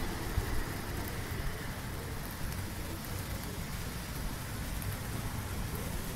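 Light drizzle falling: a steady, soft hiss of rain pattering on trees and the wet street.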